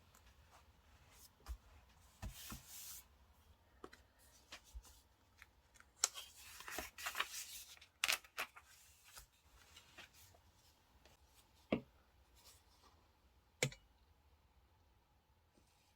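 Paper and stickers being handled on a diary page: light rustling, with a longer rustle about six seconds in, and a few sharp taps and clicks.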